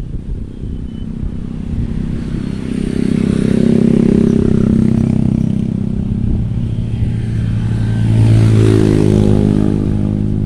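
A motor vehicle engine running nearby. It grows louder twice, and its pitch rises in the second half as it revs up.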